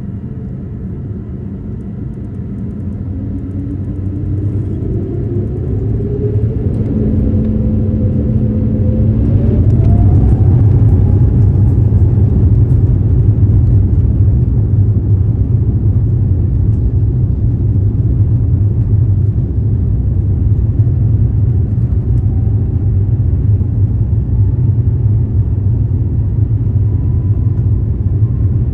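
Airbus A350-900's Rolls-Royce Trent XWB engines spooling up to takeoff thrust, their whine rising in pitch and the noise building over the first ten seconds or so. After that comes a steady, loud rumble of the takeoff run.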